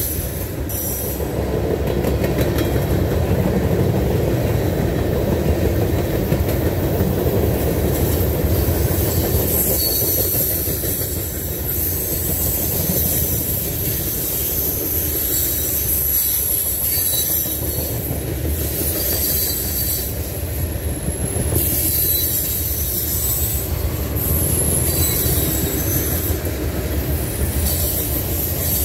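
Norfolk Southern freight cars rolling past: a steady rumble of steel wheels on rail, with a high-pitched wheel squeal that comes and goes.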